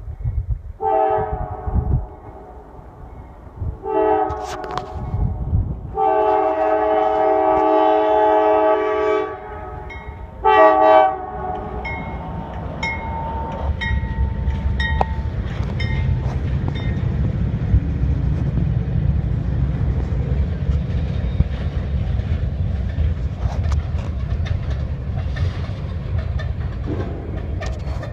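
CSX diesel locomotive's horn sounding four blasts, the third about three seconds long, then the steady rumble and wheel clatter of the train rolling slowly past.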